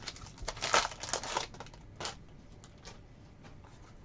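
Crinkling and rustling of trading card packaging and cards being handled: a cluster of crinkles in the first second and a half, then a few fainter clicks and rustles.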